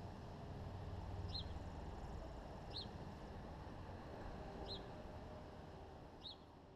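A small bird giving a short high chirp four times, about every one and a half to two seconds, over a low steady outdoor background rumble.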